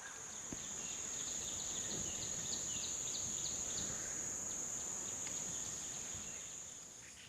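A steady, high-pitched insect drone, typical of a cicada or cricket, runs until it cuts off at the end. From about one and a half seconds in, a bird adds a quick series of short chirps, about four a second, for a couple of seconds. A low rumble lies underneath.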